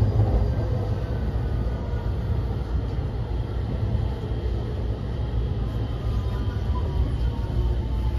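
Running noise heard inside a JR West 223 series 2000 motor car: a steady rumble of wheels on rail, with the Toshiba IGBT VVVF inverter's thin tones slowly falling in pitch as the train slows for its next station.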